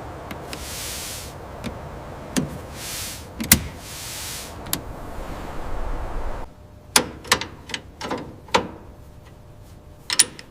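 Workshop work sounds: three bursts of hissing over a steady noise, then, after about six and a half seconds, a run of sharp clicks and knocks.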